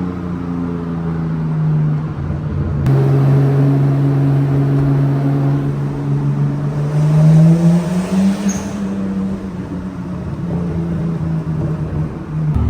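Nissan Skyline R34 engine running while the car is driven, a steady note that rises in pitch as it accelerates about two-thirds of the way through, then eases back and holds steady.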